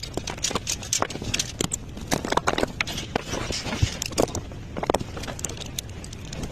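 Many irregular knocks and clicks over a steady low rumble, as the enclosed motorcycle trailer is being worked and moved around in.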